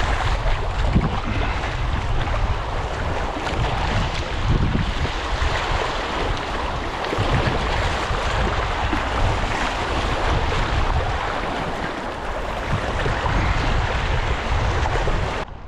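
Loud rushing river water around a kayak, with wind buffeting the microphone in gusts. It cuts off abruptly near the end.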